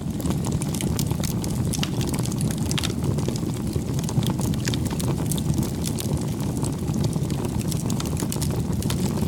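Wood bonfire burning: a steady low rush of flame with frequent sharp, irregular crackles and pops from the burning wood.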